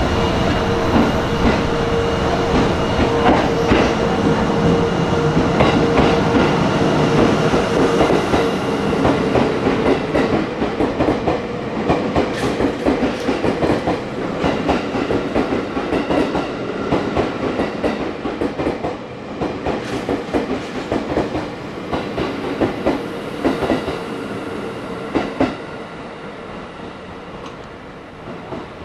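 A 651 series limited express electric train running past along the platform, its wheels clicking over the rail joints. A steady hum at first fades after about ten seconds, and the whole sound slowly dies away as the last cars pass.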